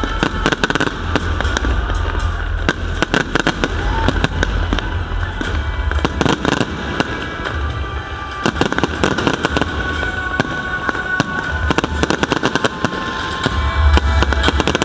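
Aerial fireworks bursting in quick, overlapping succession: many sharp bangs and crackles each second, with no let-up.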